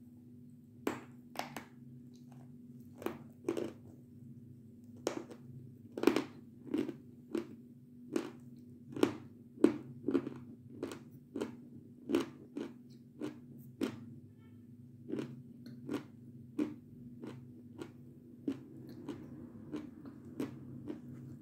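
Close-up crunching as a person bites and chews a crunchy snack coated in runny white chocolate, about two crunches a second with short pauses, over a faint steady low hum.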